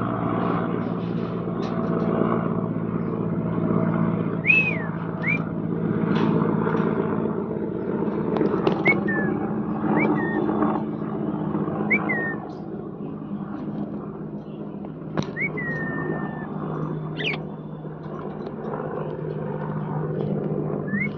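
A parrot giving short whistled chirps, about eight of them a second or a few seconds apart, each rising then falling, a few trailing off in a longer held note. A steady low hum runs underneath.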